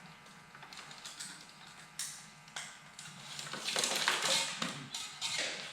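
Clicks and rustling as a multimeter and its test leads are handled and set up, with sharp clicks about two seconds in and busier scraping and rustling in the second half.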